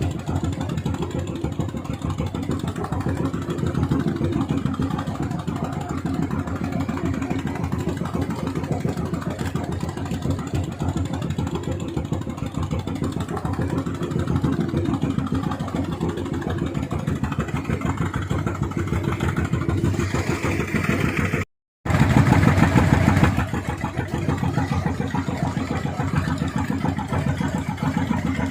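Fishing boat's engine running hard at high throttle, a fast, even stream of firing pulses. It cuts out for a split second about three-quarters of the way through, then comes back louder for a second or two.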